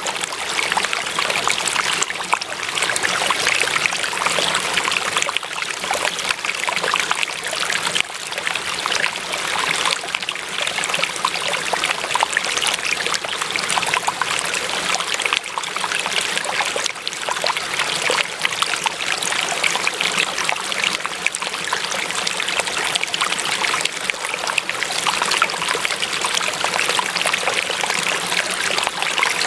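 Water running steadily in a stream, with a close trickling and splashing over stones.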